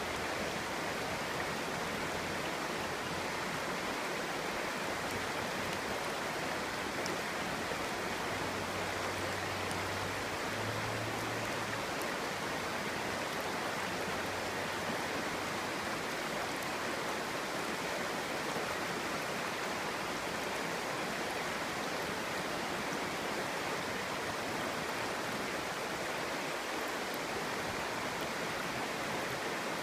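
Shallow, clear stream babbling and murmuring with a steady, even rush of water.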